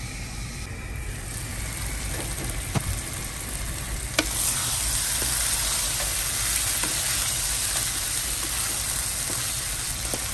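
Prawns in chilli sambal sizzling in a wok, with a wooden spatula stirring and scraping. A sharp clink about four seconds in, after which the sizzling is louder.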